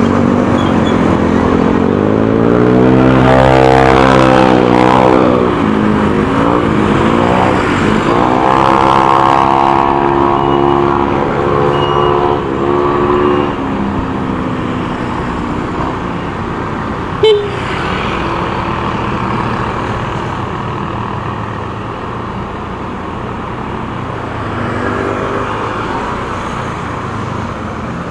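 Motorcycle engine running under the rider on the road, its pitch climbing as it speeds up twice in the first half, then settling to a steadier, quieter run. A single sharp click comes about two-thirds of the way through.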